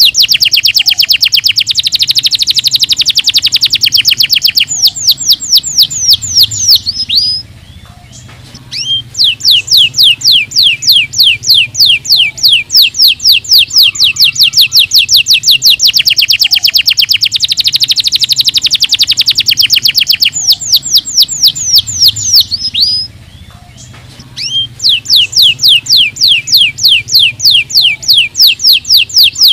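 Domestic canary singing long, rapid trills of repeated high notes, many a second, broken by two short pauses, one about a quarter of the way in and one about three-quarters of the way in.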